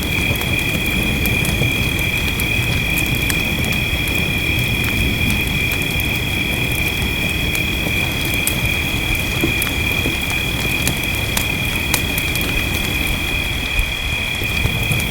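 Wood fire crackling, with scattered sharp pops over a steady low rumble of rain. A constant high-pitched ringing tone runs underneath without a break.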